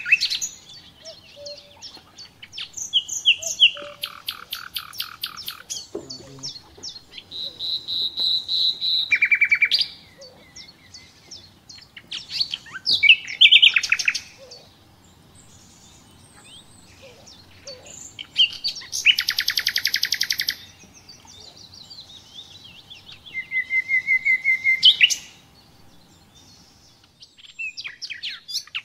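A songbird singing a varied song of high trills and fast runs of repeated notes, in phrases a few seconds apart.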